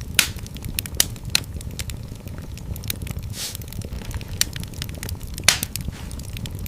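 Fire in a fireplace crackling: a low steady rumble under a stream of small clicks and several sharper pops, the loudest just after the start and about five and a half seconds in, with a short hiss around the middle.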